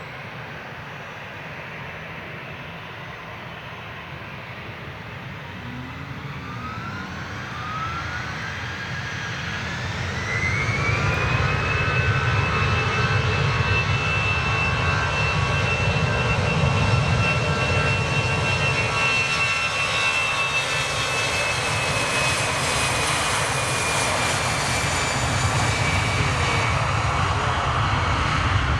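Jet airliner engines spooling up. A whine rises steeply over about five seconds, then holds high while the engine noise grows loud, and eases slightly near the end.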